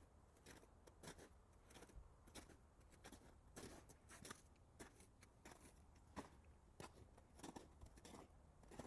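Faint footsteps crunching underfoot, about two steps a second.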